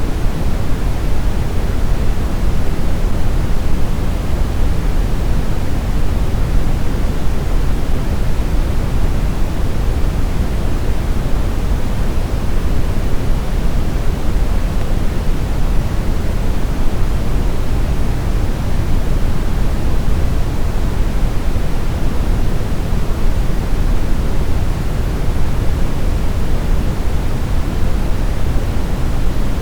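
Steady synthetic brown noise: a constant deep rumbling hiss, heaviest in the bass and fading toward the treble, with no changes or events.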